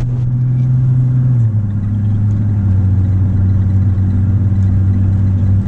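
Toyota Supra Mk3's straight-six engine pulling the car along, heard from inside the cabin: a steady engine note that drops in pitch about a second and a half in, then holds steady.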